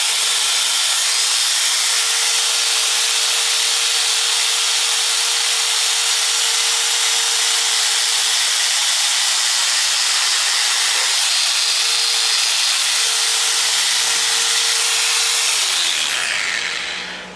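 A power tool running steadily with a loud hissing grind, then switched off about sixteen seconds in and winding down.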